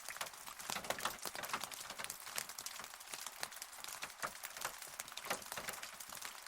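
Rain falling, heard as a dense, irregular patter of separate drops ticking sharply on a surface, with no thunder.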